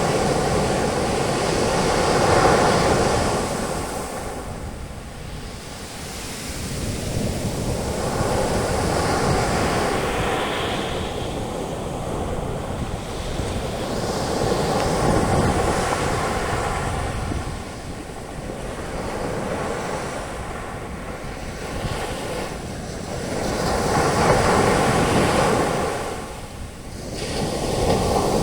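Ocean waves breaking on a beach and the foam washing up and draining back, swelling and fading every few seconds, with some wind on the microphone.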